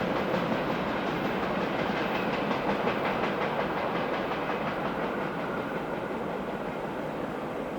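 A train running past on the rails: a steady rumble and rattle of wheels on track, slowly getting a little quieter.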